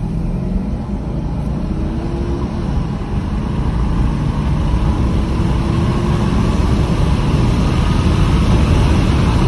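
2015 Porsche Cayenne engine under hard acceleration, its pitch rising as it pulls and growing louder in the second half, with rushing road and wind noise. Heard from inside the cabin with a side window stuck open.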